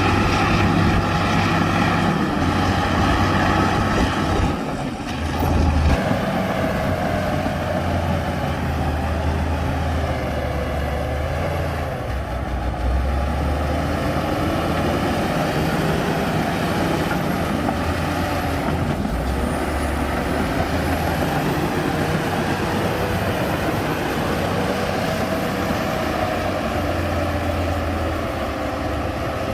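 Heavy diesel earthmoving machinery running under work, the engine note rising and falling with the load.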